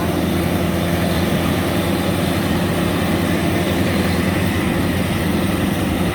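Rice combine harvester's diesel engine running steadily, a constant low hum with mechanical noise over it.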